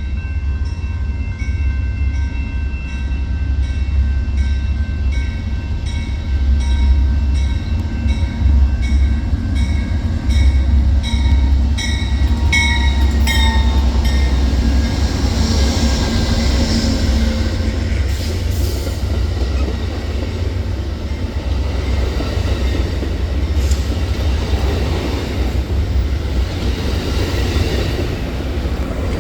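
A train passing close by: a steady low rumble of wheels on rail, with evenly repeating clicks of the wheels over rail joints through the first half.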